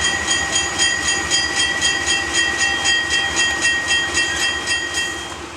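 Locomotive bell ringing steadily in quick repeated strokes over the rumble of a running train, fading near the end.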